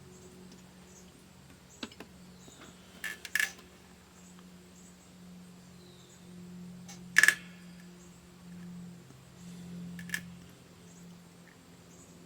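A few sharp clicks and taps from small objects being handled, the loudest about seven seconds in, over a low steady hum.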